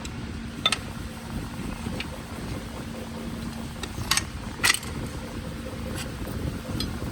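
A few sharp metal clinks, as of tools or small parts being handled, over a steady mechanical hum; the loudest clinks come twice close together a little past the middle.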